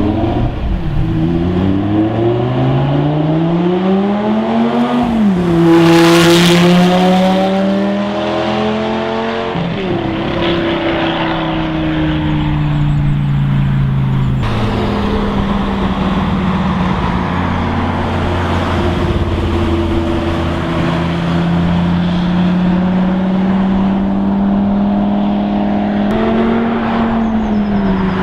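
Lamborghini Gallardo Superleggera's V10 through a custom exhaust, revving up with a rising pitch and loudest as it passes about six seconds in. The pitch then falls and settles into a steady engine drone, with a short rise and drop near the end.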